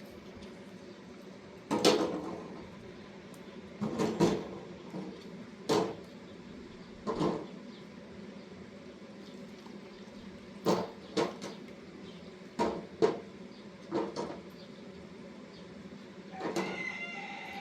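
A series of about a dozen irregular knocks and clatters, like hard objects being handled or set down, over a steady background.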